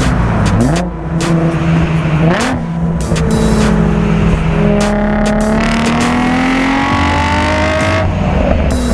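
Infiniti G-series V6 with an aftermarket exhaust accelerating: the engine note dips and climbs near the start, then rises steadily through a long pull before falling back near the end.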